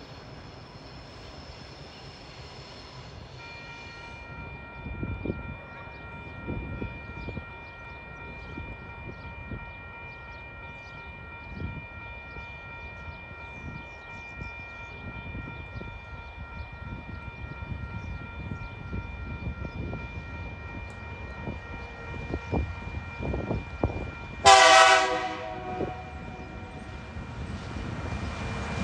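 TasRail diesel-electric freight locomotive TR11 approaching, its engine rumble growing louder, with one short horn blast of about a second roughly three-quarters of the way through. A steady high hum made of several tones runs under most of it.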